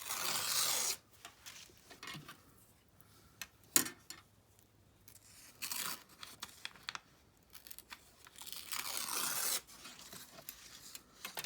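A brittle old book page being torn by hand in three rips, two of them lasting about a second, with light paper rustling and small taps between.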